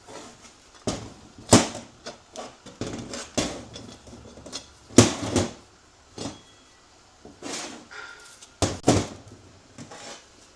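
Irregular metallic clicks and clanks of parts being handled as a 6L80 transmission's reverse clutch pack is taken apart: the snap ring and the steel and friction clutch plates. Several louder knocks stand out, about a second and a half in, near the middle and near the end.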